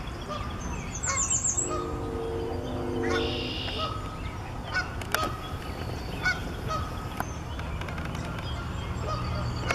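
Birds calling: a drawn-out honking call about two seconds in and another near the end, with a quick high trill and scattered short chirps from small birds over a low steady rumble.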